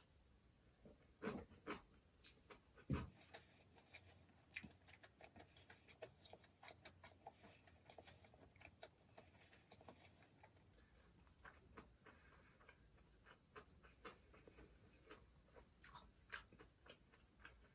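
Faint, close-up eating sounds: soft chewing with many small irregular clicks, and a few louder taps about a second in, about three seconds in and near the end.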